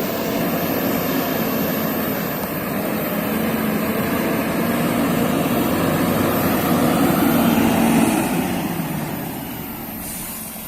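An engine running steadily with a low hum, growing louder until about eight seconds in, then fading.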